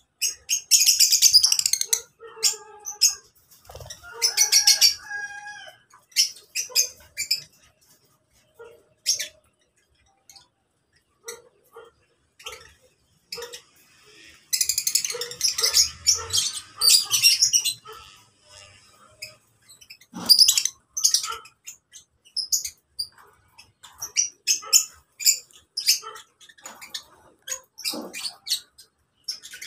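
A flock of lovebirds chattering in shrill, rapid chirps that come and go in loud bursts, with scattered single calls in between.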